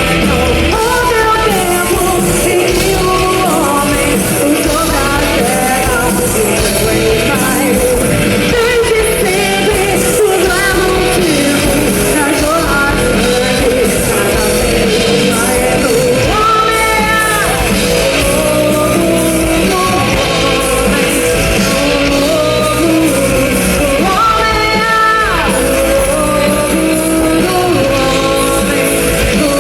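A rock band playing live, with a lead singer over the full band at a loud, steady level.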